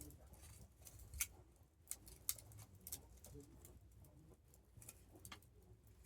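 Wood campfire crackling faintly, with a few sharp, irregular pops, the loudest about a second in and again a second later, over a faint low rumble.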